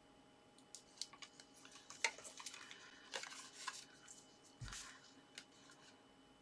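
Faint rustling and small taps of cardstock being handled and pressed together, the sharpest tap about two seconds in, with a soft low bump near the end.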